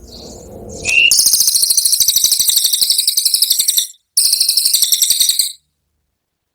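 Cililin songbird's 'tembakan' song: a short upward note, then a rapid high-pitched rattling trill of about ten notes a second, broken once by a brief gap and stopping suddenly.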